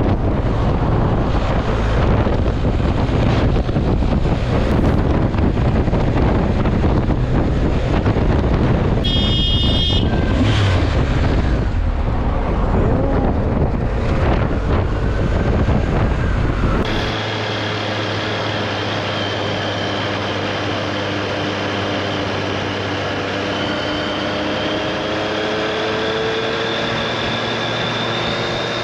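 Motorcycle riding noise: wind buffeting the microphone over the engine, with a brief high beep about nine seconds in. About seventeen seconds in it cuts to a steadier engine sound with a slowly gliding whine.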